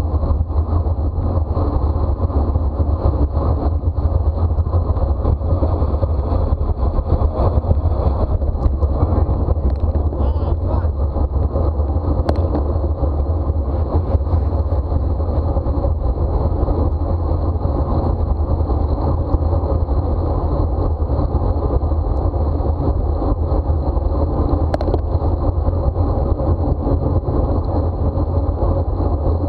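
Steady wind rush buffeting the microphone of a camera on a moving bicycle, with tyre and road noise underneath and a couple of faint clicks.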